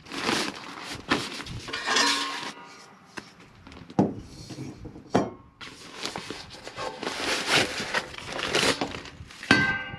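Solo Stove camp fire pit being taken out of its carrying case: rustling and handling of the case, with sharp knocks about four and five seconds in and a ringing metal clink near the end.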